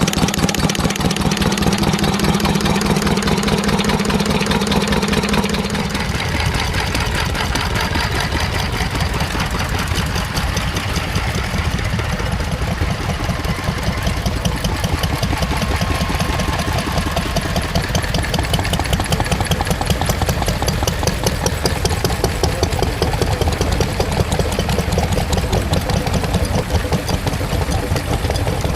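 Stationary engines running with a fast, even beat. About six seconds in, a steady low drone cuts off and a different engine's beat carries on.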